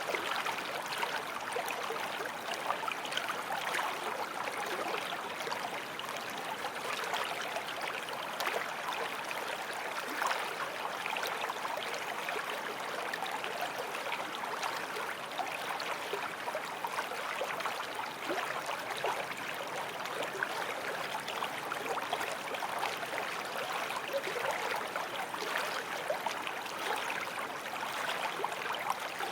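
Forest stream flowing over stones: a steady, even babble and gurgle of running water.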